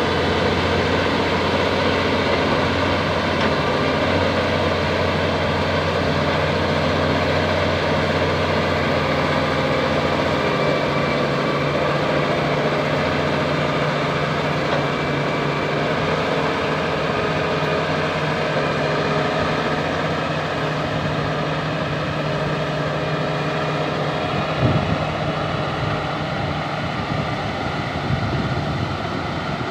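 Bulldozer's diesel engine running steadily under work, with a single sharp knock about 25 seconds in.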